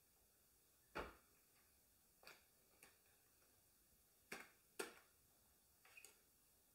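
Near silence in a small room, broken by about five faint, irregular clicks of keys being pressed on a Sony VAIO laptop keyboard.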